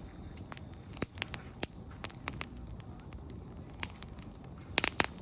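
Wood campfire crackling, firewood popping in sharp irregular snaps over a low steady hiss, with a quick burst of several pops near the end.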